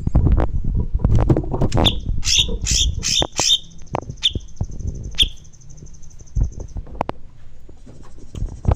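Songbird calling: a quick run of four sharp, squawky notes, then two single notes, over a thin, steady high trill. Knocks and thumps sound underneath, mostly in the first half.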